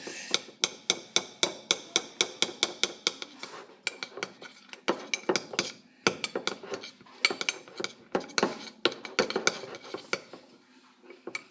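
A utensil clinking and scraping against a container in quick, repeated strokes as melted gummy bears are stirred into slime. The clicks come about three or four a second, pause briefly a few times, and die down near the end.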